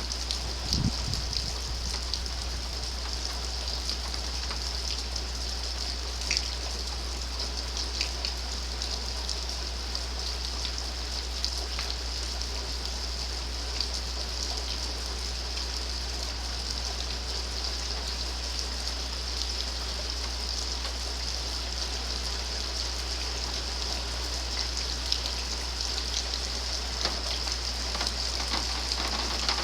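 Steady rain falling during a thunderstorm, a continuous hiss with scattered individual drop hits.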